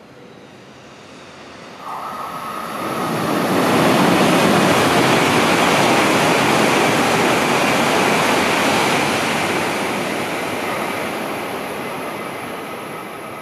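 E2 series Shinkansen passing through the station at speed without stopping. A rush of air and wheels swells over a couple of seconds, holds loud for several seconds while the train goes by, then slowly fades.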